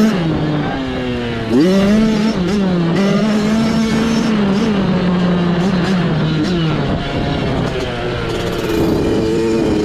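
Mini bike engine running hard while racing off-road, its pitch rising and falling with the throttle, with a sharp climb about a second and a half in.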